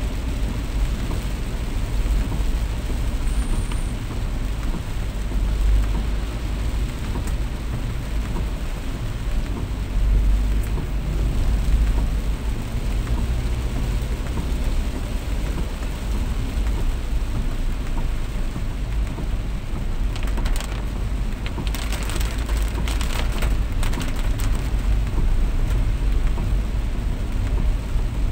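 Heavy rain falling steadily, with a deep low rumble underneath and a short cluster of sharp crackles about three-quarters of the way through.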